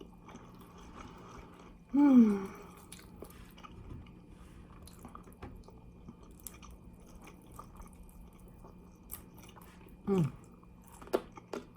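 Close-up chewing of fried chicken wings, with small wet clicks and crunches. Two short vocal sounds with a falling pitch, about two seconds in and near the end.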